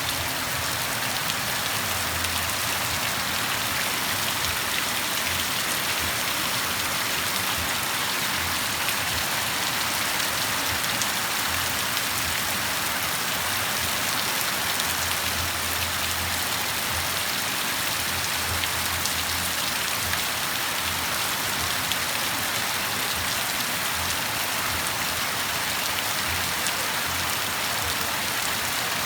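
Steady rain falling, a dense even patter of drops with no letup. A faint low rumble comes and goes underneath.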